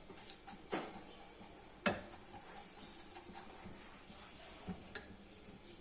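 Light kitchen clatter: a few sharp knocks and clicks of utensils or pans, the loudest about two seconds in.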